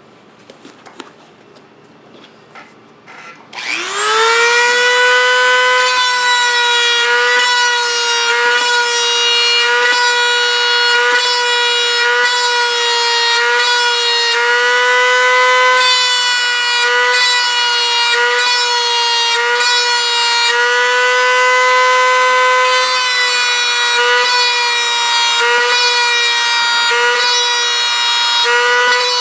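Dremel rotary tool spinning a brass tube bit to press scale rivets into a model jet's tail surface. After a few light handling clicks it spins up about three and a half seconds in to a steady high whine, dipping slightly in pitch now and then as the tube touches the surface.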